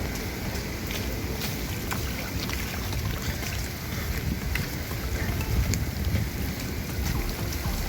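Rain falling, with scattered sharp drop ticks over a steady hiss and a low rumble.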